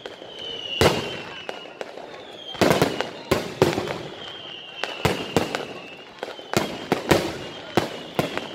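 Aerial firework shells bursting in a display: a string of sharp bangs at uneven intervals, some single and some several in quick succession. A high whistle, falling slightly in pitch, is heard between the bangs.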